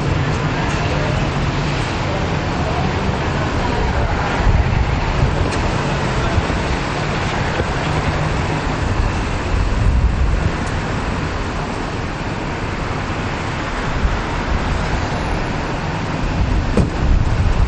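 Large SUV engines running at low speed as they roll through a driveway, with a steady low rumble and traffic noise.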